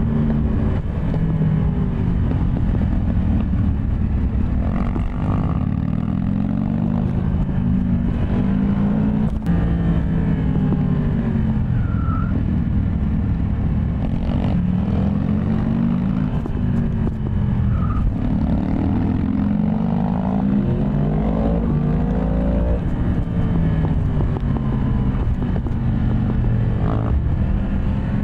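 Yamaha MT-10 SP's crossplane inline-four engine under way, its pitch climbing and dropping again and again as it accelerates, shifts and eases off, over a steady low rumble.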